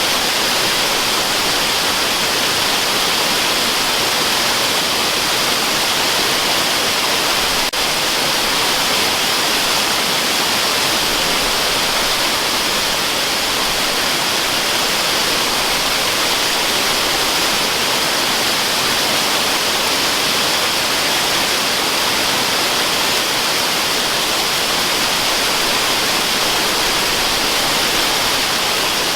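Steady, unbroken waterfall rushing noise, used as white noise, hiss-like and strongest in the high pitches with little low rumble. There is a faint brief tick just before eight seconds in.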